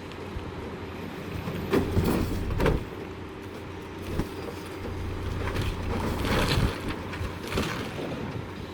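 Rear-loader garbage truck's diesel engine running, rising in the second half, with several sharp knocks and crunches about two seconds in and again around six to seven and a half seconds in, as bulky waste is loaded and packed.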